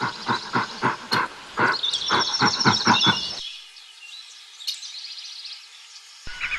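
Jungle ambience of many birds chirping, with a rhythmic run of deep pulsing sounds, about three a second, that stops about three and a half seconds in. A fuller, louder layer of calls comes in near the end.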